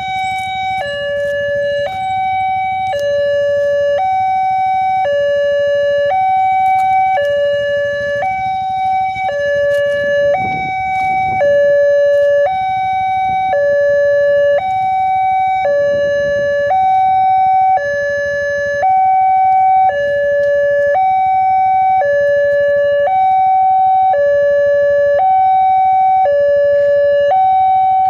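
Railway level-crossing warning alarm sounding its electronic two-tone signal, stepping back and forth between a higher and a lower tone about every half second. It warns that a train is approaching and the crossing is closed.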